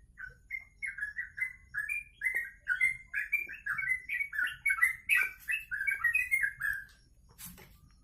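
Caged songbird singing a long, fast run of short down-slurred whistled notes, about four a second, stopping about a second before the end; the bird is in full song ('gacor').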